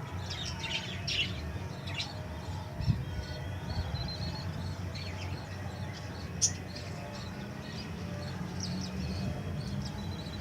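Small pet parrots chirping in short, scattered high calls over a steady low hum, with two sharp clicks.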